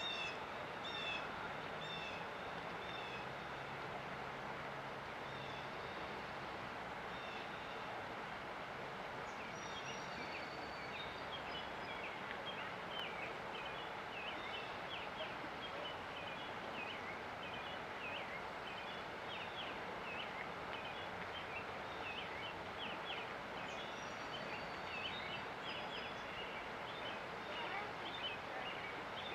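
Steady rush of river water with songbirds chirping over it. A few repeated calls come in the first seconds, then rapid, busy chirping fills in from about nine seconds on, with an occasional high whistle.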